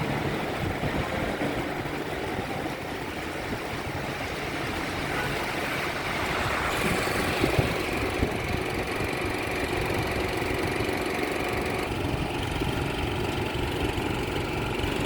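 City street traffic: vehicle engines running steadily.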